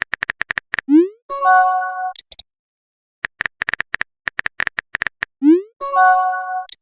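Phone messaging sound effects, played twice: a quick run of keyboard tap clicks, a short rising swoosh, then a chiming message tone with a couple of high blips after it.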